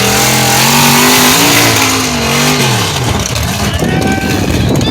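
Lifted truck engine revving, its pitch rising and then falling away about three seconds in, over a steady rush of noise.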